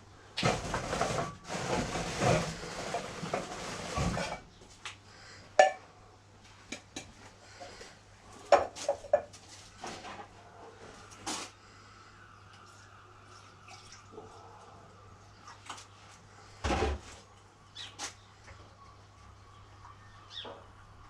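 A few seconds of rushing noise, then scattered clinks and knocks, like small hard objects being handled, over a faint steady low hum.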